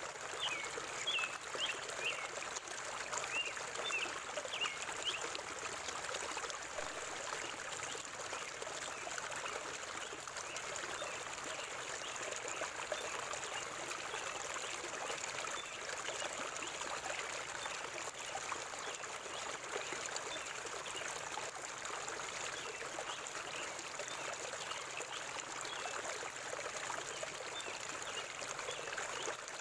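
River water flowing and babbling over rocks in a steady rush, with a few quick bird chirps over it in the first few seconds.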